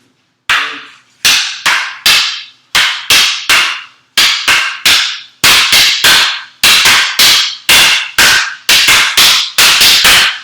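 Escrima sticks clacking together in the heaven six double-stick drill: a run of sharp wooden strikes that quickens from about two a second to about three.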